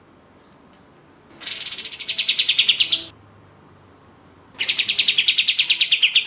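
Kapas tembak (katem) songbird giving two fast, rattling trills of evenly repeated high notes, each under two seconds long and dropping in pitch partway through.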